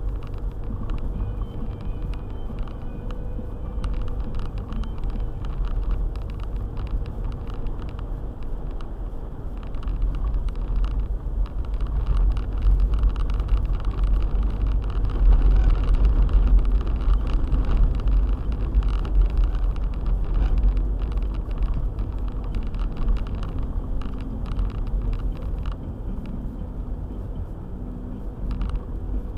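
Four-wheel-drive car driving on a snowy road: a steady low rumble of engine and tyres, somewhat louder in the middle stretch.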